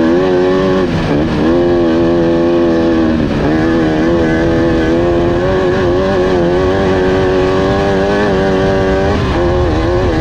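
Off-road race car engine running hard at high revs, its pitch dipping briefly about a second in, again after about three seconds and near the end, then climbing back each time.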